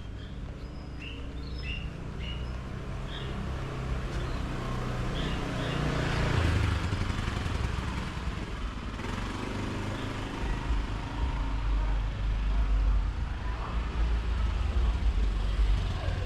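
A motor vehicle passing close by on the street, growing louder to a peak about six seconds in and then easing off, over a steady low traffic rumble. A few short bird chirps sound in the first few seconds.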